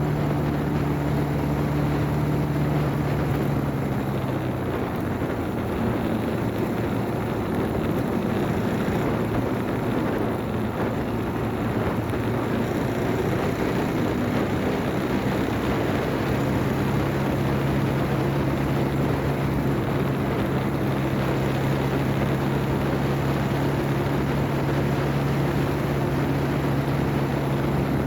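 Motorcycle riding, with a steady hiss of wind and road noise. A steady engine hum is prominent at the start, fades for a stretch from about 4 s, and returns strongly from about 16 s.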